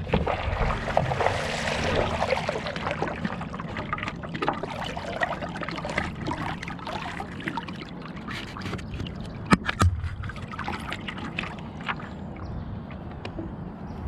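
Stand-up paddleboard paddle stroking through lake water, splashing and dripping, loudest in the first few seconds. Two sharp knocks come close together near ten seconds in.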